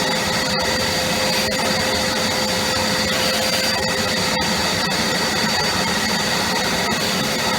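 Vacuum cleaner running steadily with a whine, with a few faint knocks.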